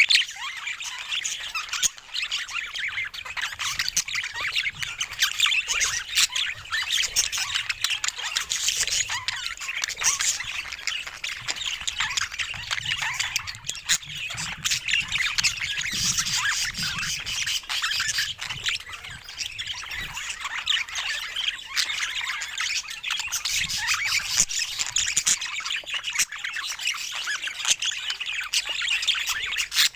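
Several pet budgerigars chattering without a break: a dense, busy stream of high chirps and calls.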